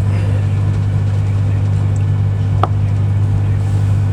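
Interior running noise of a Virgin Trains Class 390 Pendolino electric train under way: a loud, steady low hum, with a single click about two and a half seconds in.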